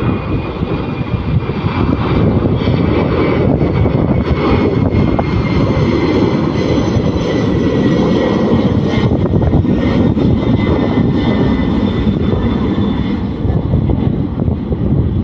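Boeing 747-400's four jet engines at takeoff power: a loud, steady rumble with a thin high whine over it.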